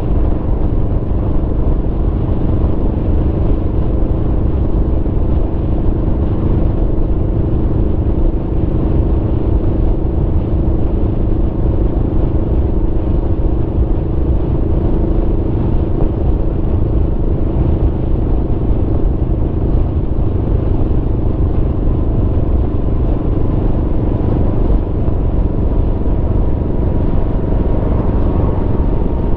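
Aprilia Tuono V4 motorcycle's V4 engine running at a steady, near-constant speed while riding, its engine note holding level over a heavy low rumble.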